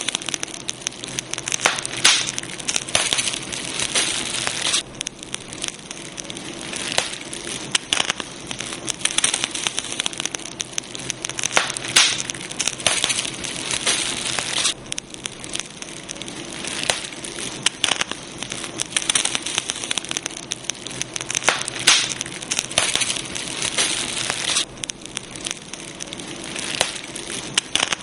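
Campfire burning with steady hissing and irregular crackles and pops of the wood.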